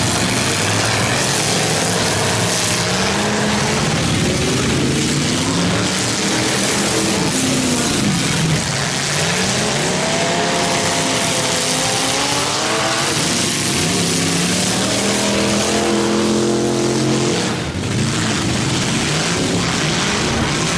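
Several demolition derby cars' engines revving hard, overlapping, their pitch rising and falling again and again as the drivers accelerate and back off.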